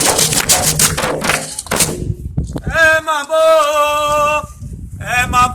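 Candomblé percussion playing a fast toque that stops about two seconds in. After a short pause a single voice sings long held notes, breaking off briefly and then starting again near the end.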